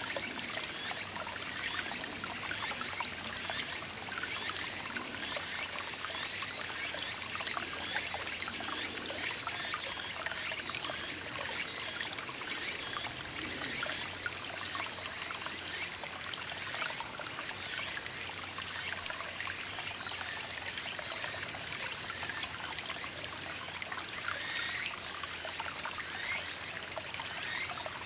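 Small mountain stream in summer babbling and trickling steadily, full of quick little bubbling gurgles, under a steady high-pitched drone.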